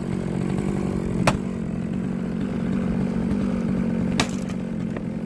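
A small engine runs steadily, with two sharp cracks: one about a second in and one near the end.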